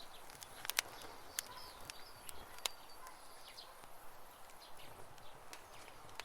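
Campfire crackling, with scattered sharp pops clustered in the first three seconds, while birds chirp briefly in the background.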